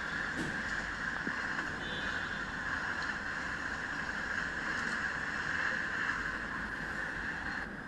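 Steady rushing noise of an express train running past at speed on the line, without a clear beat of wheel knocks.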